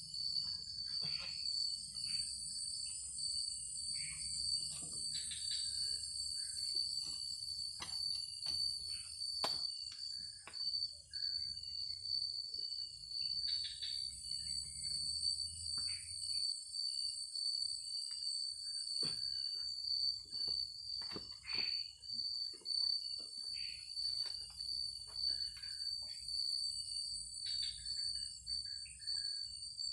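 Forest insects, crickets among them, keep up a steady high-pitched trill, with a higher hiss of more insects above it. Short chirps and scattered clicks sound now and then throughout.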